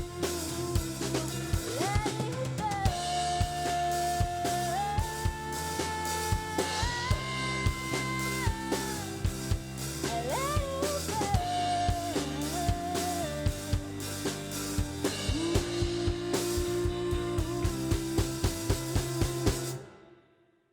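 Band music with a drum kit keeping a steady beat under held chords and a sustained lead melody line that glides between notes. The music fades out quickly near the end.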